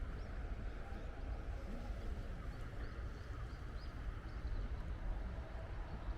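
Steady outdoor background noise with faint, short, high bird chirps repeating through it.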